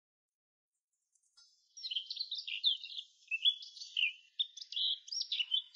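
A songbird singing a fast, varied run of high chirps and warbles, starting a little under two seconds in after silence.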